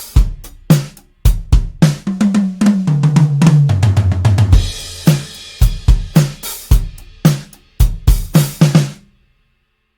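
Toontrack EZdrummer 3's sampled acoustic drum kit playing a groove of kick, snare, hi-hat and cymbals. About two seconds in there is a fill down the toms, falling in pitch and running to about four and a half seconds. The beat stops about nine seconds in.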